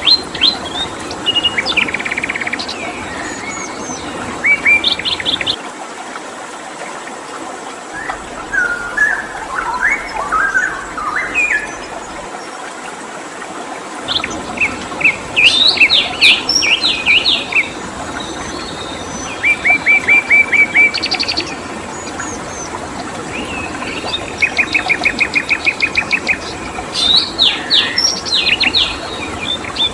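Songbirds singing in bursts of chirps and fast trills, phrases coming every few seconds, over a steady hiss of running water.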